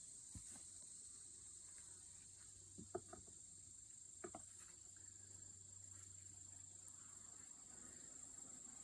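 Faint, calm hum of a honeybee colony in an opened hive, the quiet sound of bees that are not queenless, over a steady high-pitched insect trill. A few light clicks come about three and four seconds in.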